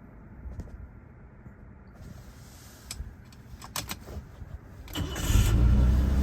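A few faint clicks, then the 1974 BMW 3.0 CS's straight-six fires on a cold start about five seconds in and settles into a steady, much louder run.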